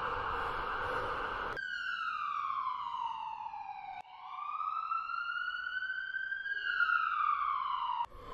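Siren wailing in slow glides: one tone sliding down, then, after an abrupt cut about four seconds in, rising and falling again before it cuts off near the end. A steady hiss comes before the first glide.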